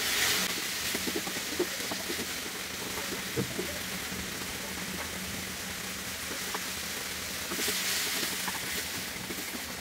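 Chopped tomatoes sizzling in a nonstick frying pan while a slotted spatula stirs them, with small scrapes and taps of the spatula on the pan. The sizzle swells louder near the start and again about eight seconds in.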